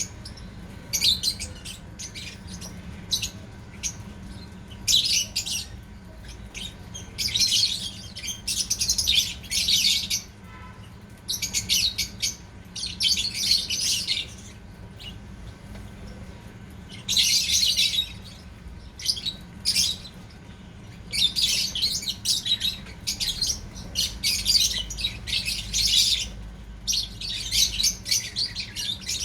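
Lovebirds chattering in repeated high-pitched chirping bursts, each about a second long, with short pauses between them.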